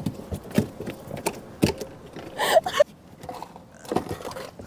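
Irregular knocks and clicks of a fish and gear being handled in a kayak, with a short vocal sound about halfway through.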